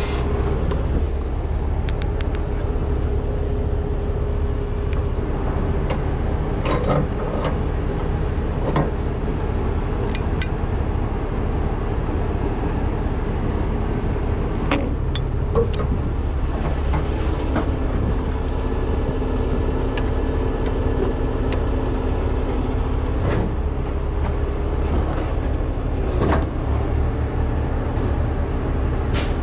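Heavy truck diesel engine running steadily, its tone shifting slightly a bit past halfway, with a few scattered metallic knocks.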